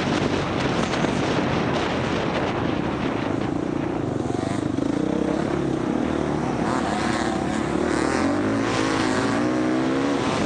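Four-stroke dirt bike engine running hard under the rider, with the revs rising and falling as the throttle opens and closes. The pitch holds fairly steady through the middle, then climbs and dips repeatedly near the end. Steady noise from wind and the knobby tyres runs underneath.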